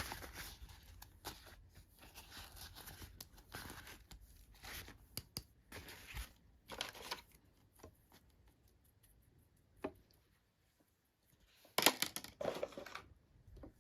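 Toy packaging being torn and crinkled open by hand, in irregular bursts of rustling with a few sharp clicks. There is a short lull, then the loudest tearing burst comes near the end.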